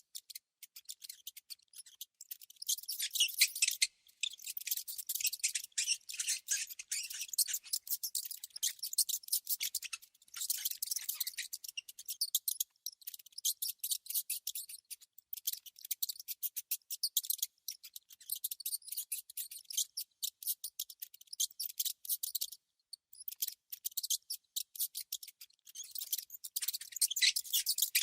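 Rodent sounds, typical of rats and mice: rapid, high-pitched clicking and squeaking that comes in bouts, broken by short pauses now and then.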